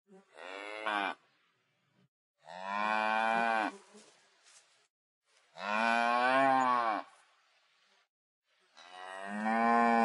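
Cattle mooing: four separate moos two to three seconds apart. The first is short and rises in pitch; the other three are longer.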